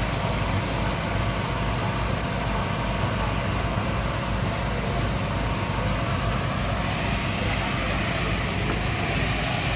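Speedboat engines running with a steady low rumble.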